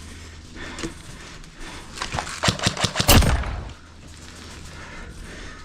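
Airsoft rifle firing a rapid string of shots about two seconds in, lasting about a second and a half, densest near the end of the string.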